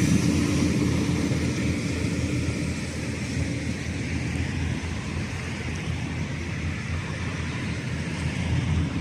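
Diesel engine of a large pusher tug driving four loaded barges: a steady low drone that slowly fades.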